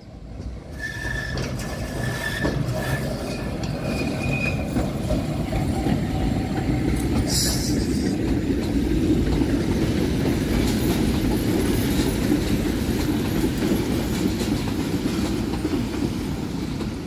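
Historic Gem 4/4 locomotive and its vintage coaches rolling past at close range: a steady low rumble and clatter of wheels on the rails. Thin wheel squeals sound in the first few seconds, and a brief sharp screech comes about seven seconds in.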